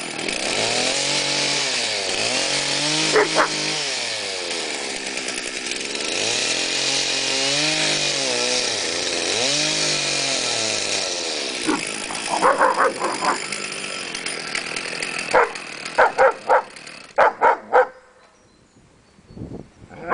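Two-stroke chainsaw running, its engine speed rising and falling four times, then it falls quiet about 18 seconds in. A dog barks repeatedly in short barks from about 12 seconds on, over the saw and after it stops.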